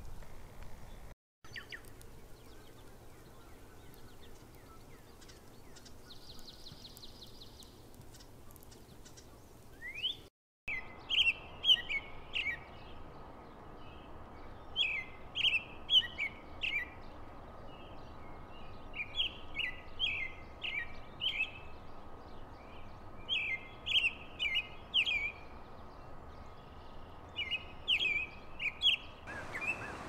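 Songbirds in a forest: faint, sparse calls at first, then about a third of the way in one bird starts singing loud phrases of quick, high chirps, repeated over and over with short pauses between them.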